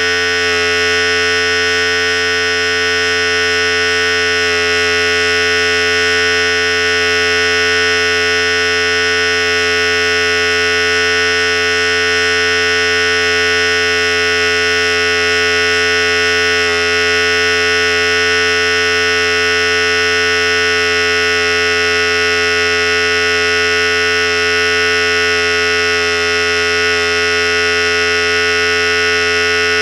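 Philips Series 5000 electric hair clipper running steadily with a continuous buzzing hum.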